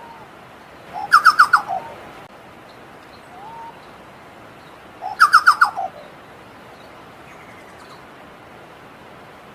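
Chucao tapaculo singing: two loud bursts of song about four seconds apart, each a quick run of four or five clear notes dropping into lower notes at the end, over a steady background hiss.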